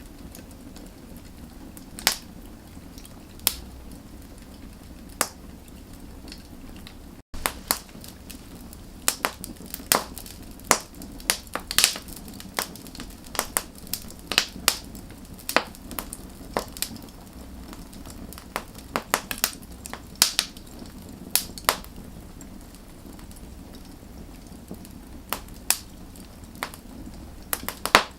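Wood fire crackling: sharp pops and snaps over a steady low rush of burning. The pops are sparse at first and come much more often after a momentary dropout about seven seconds in.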